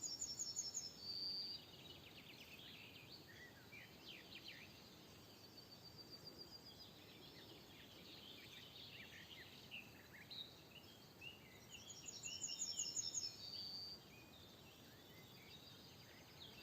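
Several songbirds singing and chirping. One bird repeats a short song twice, a rapid run of high notes ending in a single held note, at the start and again about twelve seconds later, while the others keep up scattered short chirps.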